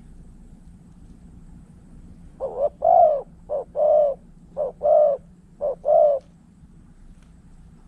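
Spotted dove cooing: four phrases, each a short note followed by a longer one, repeated about once a second, starting a couple of seconds in.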